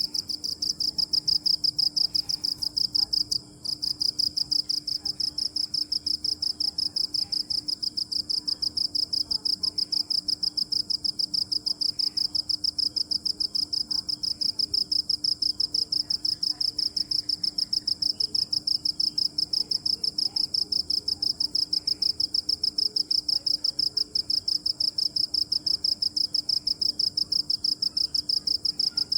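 Cricket chirping: a rapid, even run of high-pitched pulses that stops briefly about three and a half seconds in, then carries on steadily.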